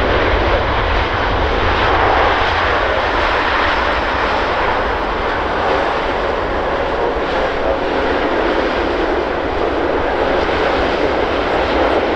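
A Boeing 787-9 Dreamliner arriving, its jet engine noise a loud, steady rush over a deep low rumble.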